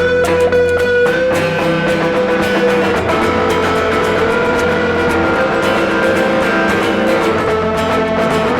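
Instrumental passage of a rock song played live: electric guitars with held, sustained notes over bass, with no singing.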